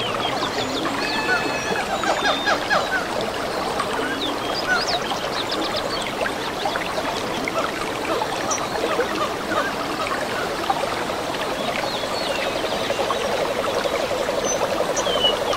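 Forest stream trickling steadily, with many short bird chirps and whistled calls over it. About three-quarters of the way through, a fast, low, pulsing trill joins in.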